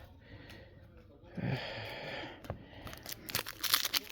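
Foil trading-card pack wrappers being torn open and crinkled. After about a second of quiet comes a stretch of tearing rustle, then scattered sharp crackles that grow busier near the end.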